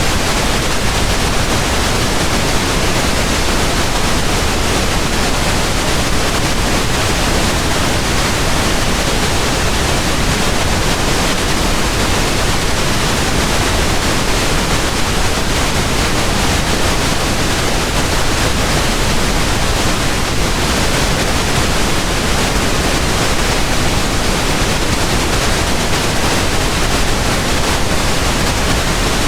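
Pink noise: steady, even hiss with no change.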